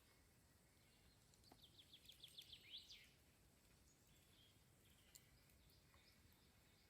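Near silence broken by faint bird song: a quick run of about eight high notes about a second and a half in, ending in a short sweep, then a few softer chirps.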